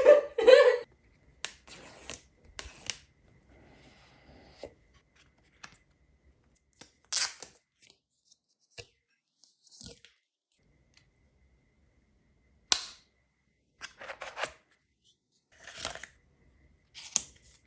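Sharp clicks, snaps and short rustles from packaging and small items being handled and opened, coming at irregular intervals with quiet gaps between.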